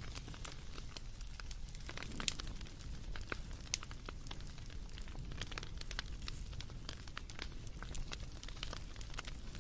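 Wood fire crackling: irregular sharp pops and snaps, a couple of louder ones about two and four seconds in, over a low steady rumble.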